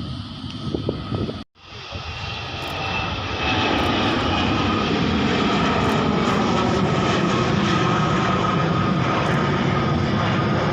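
Jet airliner engines, loud and steady, with a faint whine over the top. It comes in after a brief cut about a second and a half in, swells over about two seconds, then holds level.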